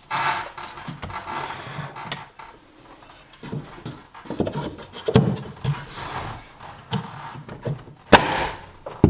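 Irregular knocks and clatter of wooden pine boards and tools being handled, with one sharp, loud knock about eight seconds in.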